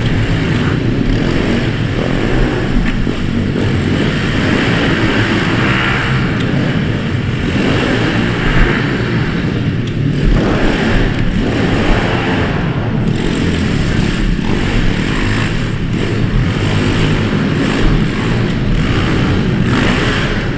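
Small single-cylinder pit bike engines running hard in a race, the engine sound rising and falling with the throttle.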